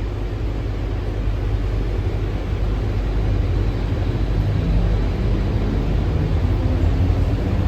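Alstom Innovia APM 300R rubber-tyred people-mover heard from inside the car: a steady low rumble that grows louder as the train picks up speed, with a faint motor whine coming in near the end.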